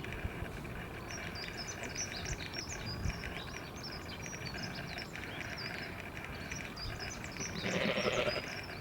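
Small birds chirping over a steady background hiss, with one short bleat-like animal call near the end.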